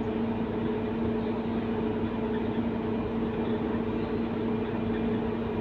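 Scania K230UB city bus running along at a steady pace, its engine and drivetrain giving a steady two-note hum over road rumble.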